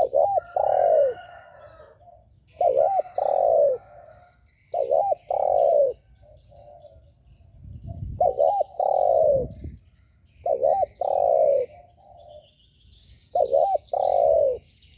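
Spotted dove cooing, repeating its coo phrase six times, about every two to three seconds: two short notes followed by a longer falling coo. Faint chirps of other small birds and a brief low rumble sit beneath it.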